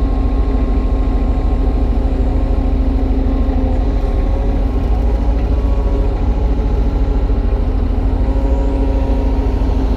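Kubota U35-3 mini excavator's three-cylinder diesel engine running at a steady speed, with a constant low rumble and a steady hydraulic-pump whine over it.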